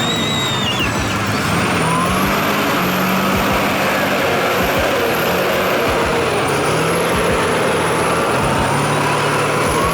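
Heavy diesel vehicle engine running steadily under load, with a thin high whistle that rises and falls above it.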